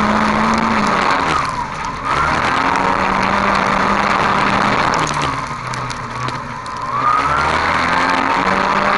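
A dirt-track race car's engine heard from onboard, running hard at high revs. It eases off twice, briefly about a second and a half in and for longer between about five and seven seconds, then revs back up each time.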